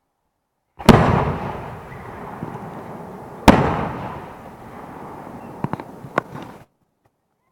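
Aerial fireworks shells bursting: two loud bangs about two and a half seconds apart, each trailing off in a long echo, then a few sharper cracks near the end before the sound cuts off suddenly.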